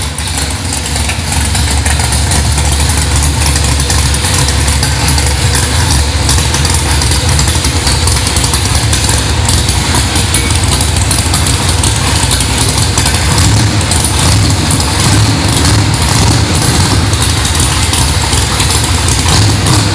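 Holden Torana drag car's engine running loudly and steadily at idle.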